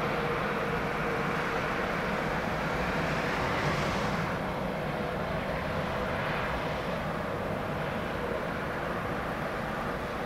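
Jet engines of a Boeing 737-800 airliner on landing approach: a steady rushing noise, with a faint steady tone that fades out in the first few seconds.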